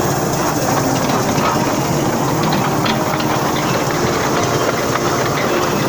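Ride-on toy train running on its track: a steady mechanical running noise of its engine and wheels on the rails.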